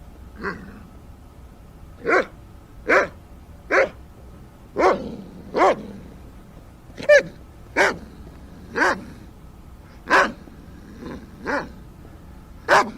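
An animal calling repeatedly: about a dozen short, pitched calls, each falling in pitch, spaced roughly a second apart.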